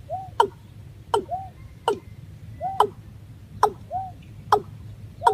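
Watercock (Gallicrex cinerea) calling in a steady repeated series: each call is a sharp note falling steeply in pitch followed by a short hooked note, about once every 0.8 seconds. A low hum sits underneath.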